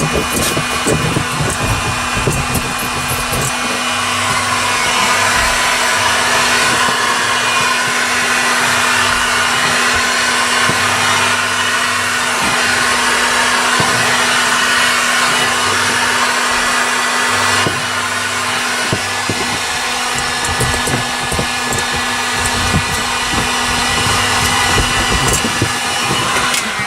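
Heat gun running steadily: a loud, even rush of air with a steady motor hum, warming sound-deadening mat so it can be pressed into place.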